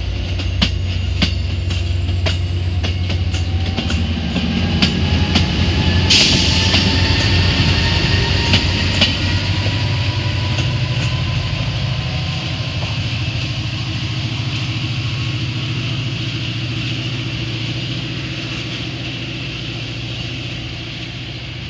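An MBTA commuter train passes close by. The coach wheels click over the rail joints, then the diesel locomotive pushing at the rear goes by with a steady low engine drone. A sudden hiss starts about six seconds in, and the sound fades as the train pulls away.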